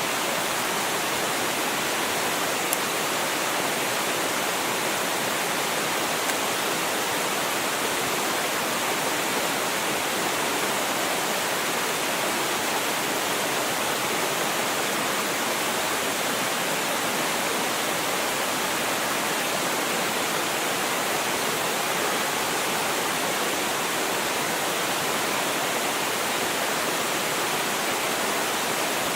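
Small waterfall on a mountain stream: a steady rush of falling and splashing water.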